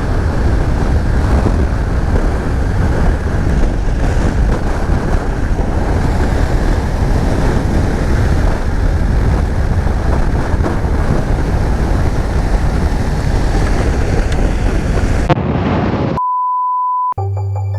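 Heavy wind buffeting on the microphone of a moving Honda CB500X motorcycle, a dense steady roar with the riding noise underneath. About fifteen seconds in, the roar cuts off abruptly. A steady beep of about a second follows, and then music begins near the end.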